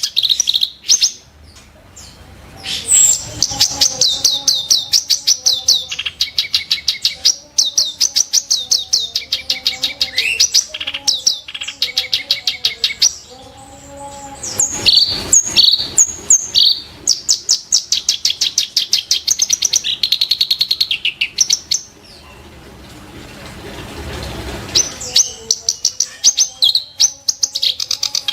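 Reed warbler (kerak basi) singing a long, fast run of sharp, harsh repeated notes and rattling phrases, with brief pauses between the phrases.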